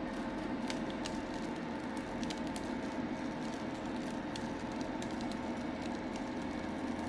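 Faint scattered crackles and ticks of cut vinyl being weeded, peeled off its backing with a weeding pick, over a steady electrical hum.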